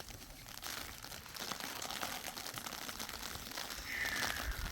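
Irregular crackling and rustling, with a brief high squeak about four seconds in.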